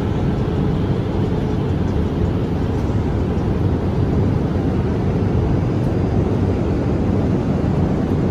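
Steady cabin noise inside a Boeing 787-8 airliner in flight: an even rush of engine and airflow noise, heaviest in the low range.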